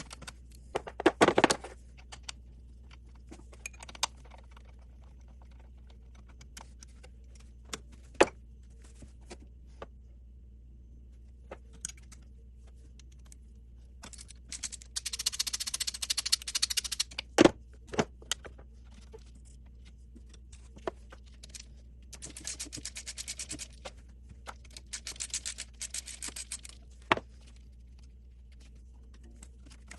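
Metal hand tools at work on an engine's thermostat housing: short runs of rapid, even clicking, and single sharp clinks and knocks of metal on metal.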